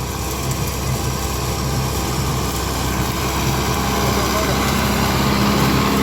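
Kubota MU5501 tractor's four-cylinder diesel engine running steadily with its rotary tiller working, the sound slowly growing louder.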